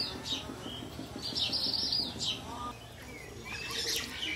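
Small birds chirping in quick, high, arching notes, with a close run of them about a second and a half in.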